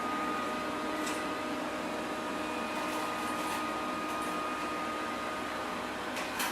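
Verefa L11 Pro robot vacuum running: a steady mechanical whirr with a constant thin whine, and a few light clicks.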